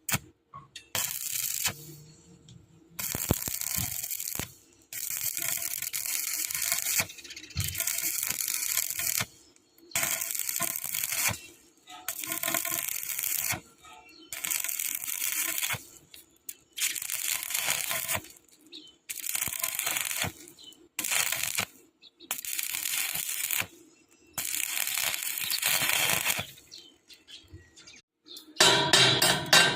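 Electric arc welding: the arc crackling and hissing in about a dozen runs of one to two seconds each, with short breaks between them. Near the end comes a rougher burst of knocks and clatter.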